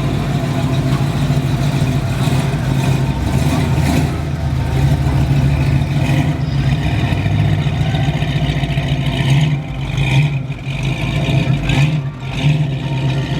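A car engine running steadily at idle, close by and loud.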